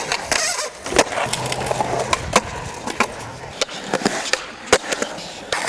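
Skateboard wheels rolling across a skatepark, broken by several sharp clacks of the board and trucks hitting the surface; the loudest come about a second in, midway and near the end.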